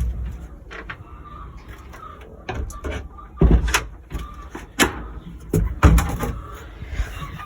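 A series of sharp knocks and clatters spread over several seconds, from handling a bird waterer and the aviary's door.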